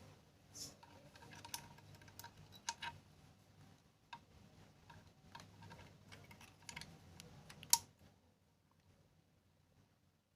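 Irregular small clicks and taps of metal parts and a tool being handled on a sewing machine during a timing adjustment, stopping about eight seconds in.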